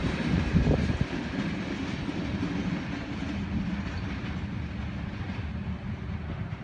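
Rear cars of a CSX mixed freight train, tank cars at the tail, rolling away on the rails. The rumble is strongest in the first second, then fades steadily as the end of the train recedes.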